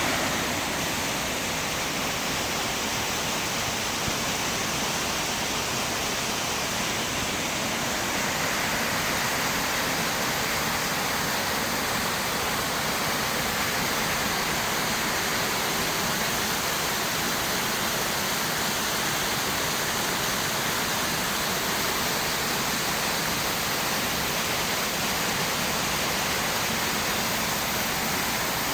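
Bigăr waterfall, with water spilling over rock into the river below and rushing steadily.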